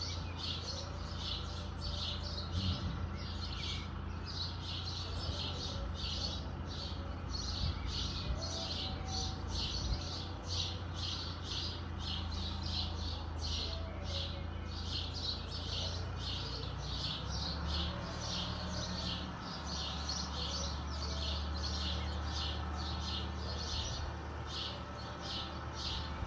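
Rhythmic high chirping, about two chirps a second, from a bird. Under it runs the low, steady drone of a distant Fiat 766 DT diesel tractor working its arm-mounted flail mower; the drone shifts in pitch a little over halfway through.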